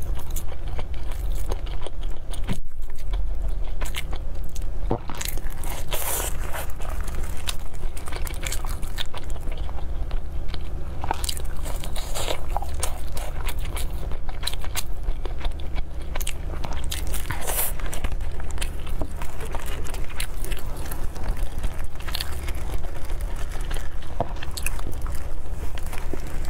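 Close-miked biting and chewing of a flaky pastry, with irregular crisp crunches.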